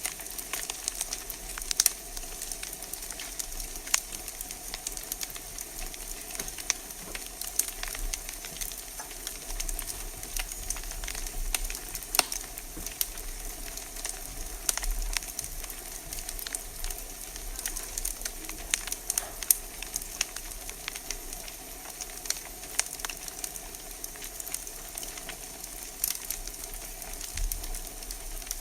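Wood fire crackling in a fireplace: a steady hiss with irregular sharp pops and snaps from the burning logs.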